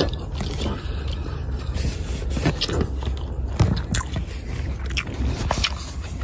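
Close-up eating sounds: wet chewing and lip smacks of fried rice, ham and egg eaten by hand. About four seconds in, scraping and rubbing as a hand covers and handles the phone.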